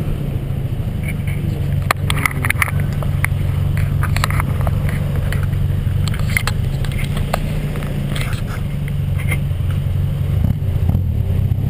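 Austin-Healey Sprite Mk1's 1290 A-Plus four-cylinder engine running steadily through a single-box RC40 exhaust. Scattered clicks and scrapes come from about two to seven seconds in.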